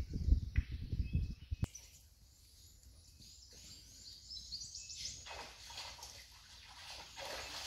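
A low rumbling noise for about the first second and a half, cut off suddenly, followed by birds chirping and calling over a quiet background.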